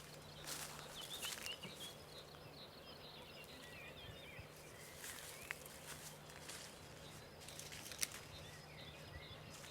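Faint outdoor ambience with small birds chirping at a distance, a few soft clicks, and a faint steady low hum.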